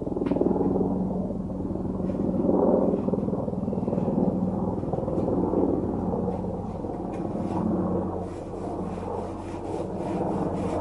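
Pile brush strip being fed along the channel of an aluminium retractable-screen housing: a continuous rubbing, scraping noise, over a steady low hum that drops in pitch about eight seconds in.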